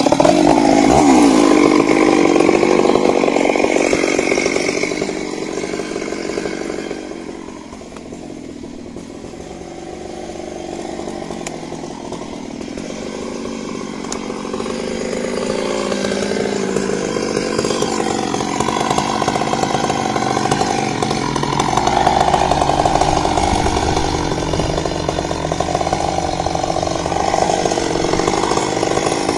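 Stihl MS 382 two-stroke chainsaw cutting through wood. It eases off about a quarter of the way in, then builds back up and stays loud to the end.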